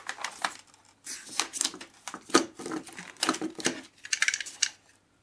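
Self-adhesive plastic book-covering film crackling and crinkling as it is handled and pressed onto the wing, a rapid irregular run of small clicks and crackles that stops shortly before the end.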